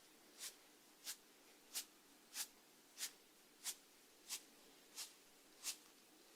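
Snail feeding, its radula rasping food: short, crisp scraping ticks in an even rhythm, about three every two seconds, nine in all.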